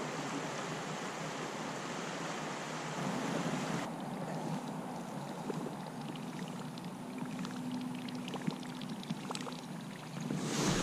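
Water and wind noise around a fishing kayak: a steady rushing hiss that drops away about four seconds in, followed by a quieter stretch with scattered faint ticks and small splashes.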